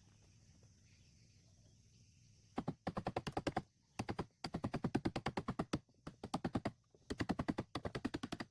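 Rapid knocking on the wooden boat's stern, about ten sharp strikes a second, in bursts of up to a second and a half. The bursts start a little after two and a half seconds in, following a quiet stretch.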